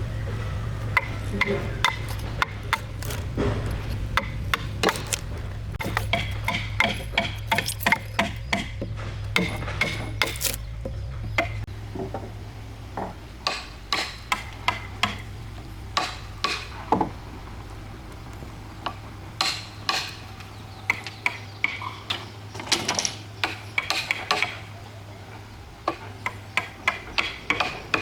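Tools knocking and tapping on wood: irregular sharp strikes, at times several a second, over a steady low hum.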